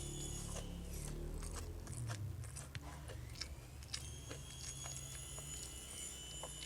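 Close-up eating sounds of a person chewing and biting stewed milkfish, with scattered short wet mouth clicks, thickest in the first half.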